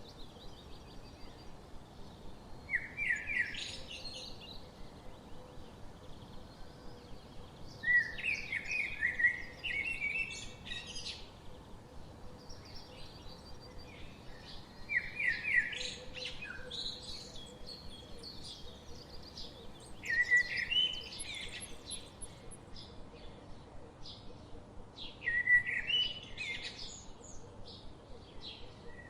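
Songbirds singing: one bird repeats a short, loud phrase of quick notes every five or six seconds, and other birds chirp more quietly in between.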